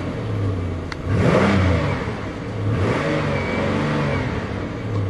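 A 3.8-litre Series III V6 running and being revved several times, its pitch rising and falling back with each rev.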